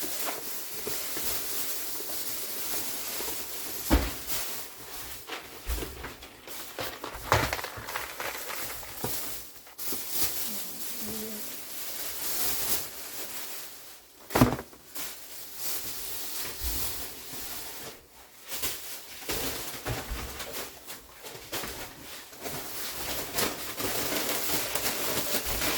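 Groceries being handled and put away: a steady rustle with scattered knocks and clunks as items are set down, the sharpest at about 4, 7 and 14 seconds in.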